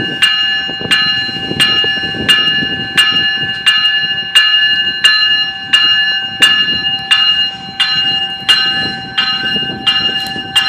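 GO Transit train's warning bell ringing steadily at about one and a half strokes a second as the train makes a slow reverse move, over the low rumble of the train.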